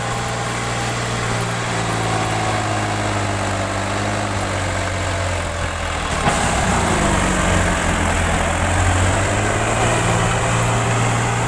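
Tractor engine running steadily under load, a little louder from about six seconds in.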